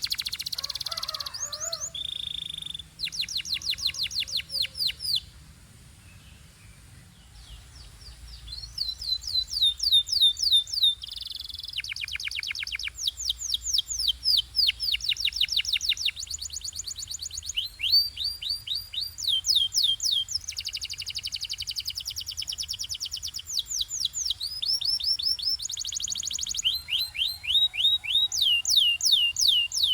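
Canary singing: a run of fast trills, each phrase a quick string of repeated falling notes, switching to a new phrase every second or so, with a brief quieter lull about six seconds in.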